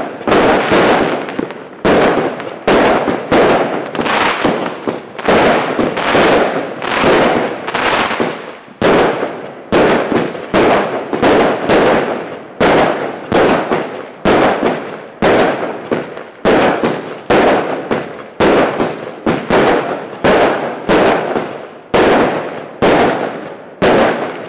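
Fireworks going off in a rapid, continuous volley of sharp bangs, about two a second, each with a short fading tail.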